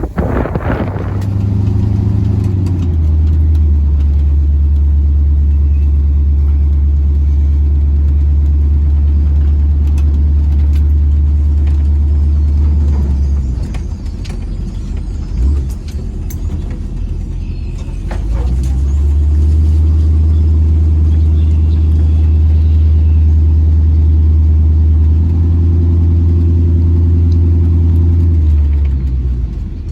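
A motor vehicle's engine running under load, with its pitch stepping up and down as it changes speed. It eases off for a few seconds near the middle, then picks up again.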